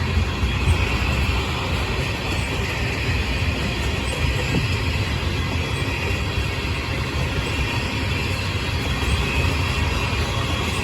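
Slow-moving train rolling past, a steady, continuous rumble of wheels on rail.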